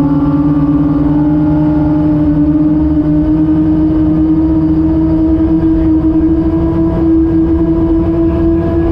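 Gas-turbine engines of a race boat running hard at speed, a loud steady drone that climbs slowly in pitch.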